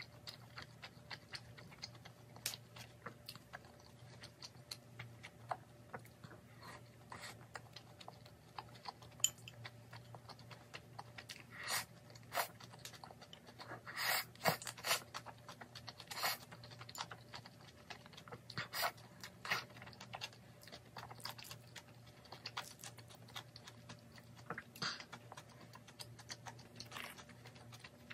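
Close-up chewing and crunching of crisp pan-fried dumplings (gun mandu): a steady run of small wet clicks and crunches, with a few louder bites, over a faint steady hum.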